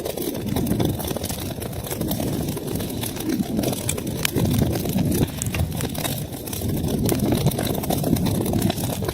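Wood fire burning in a fireplace: a steady low rumble of flames that swells and eases, with frequent sharp crackles and pops from the burning wood.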